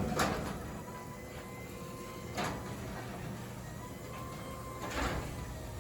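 Genie 1028 belt-drive garage door opener running as it closes the door: a steady motor hum with a thin whine over it. Three short knocks come through, near the start, about two and a half seconds in and about five seconds in.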